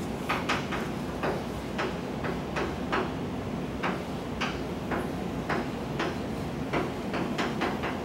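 Irregular sharp clicks and knocks, one to three a second, over a steady low rumble.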